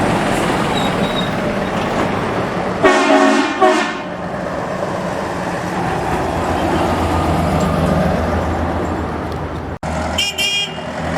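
Trucks driving past with steady engine and road noise. A truck horn blasts for about a second around three seconds in, and a second, higher-pitched horn sounds briefly near the end.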